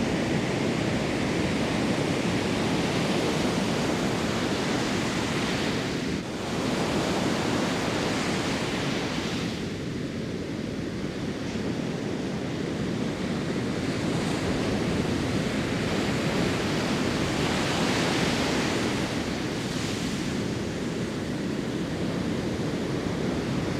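Ocean surf washing onto a beach, a steady rushing noise that swells and eases, with a brief dip about six seconds in.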